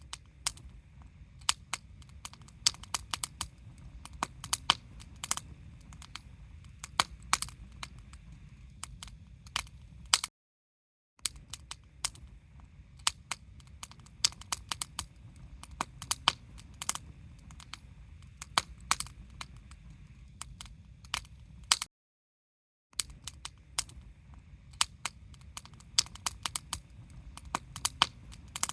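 Wood campfire crackling, with irregular sharp pops and snaps over a low rumble of burning. The sound drops out completely twice, for about a second each time.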